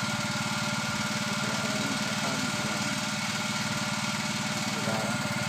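Petrol/gas generator engine running steadily at an even speed, with a fast, regular pulse to its note. Faint voices can be heard in the background.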